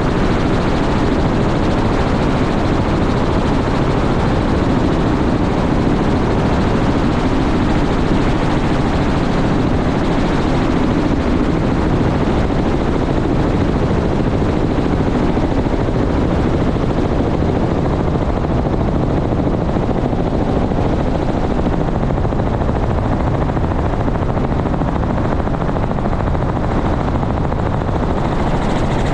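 Helicopter running steadily, its rotor and engine making a loud, even noise.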